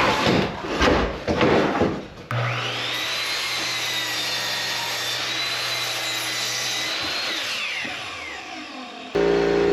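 An electric power saw's motor whines up to speed, runs steadily for about five seconds, then winds down, with a whine that falls as it slows. It comes after a couple of seconds of clattering handling sounds.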